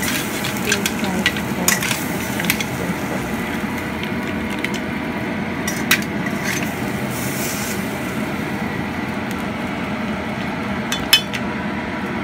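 Mussels sizzling in a hot wok, a steady hiss, with scattered sharp clinks of a metal spatula and shells against the wok.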